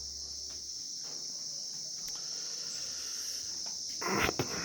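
Steady high-pitched drone of crickets or similar insects, with a short burst of rustling noise near the end.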